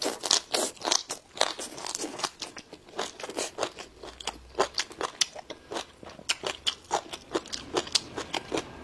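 Close-miked crunching and chewing of raw wild green onion stalks: sharp, irregular crisp crunches, several a second.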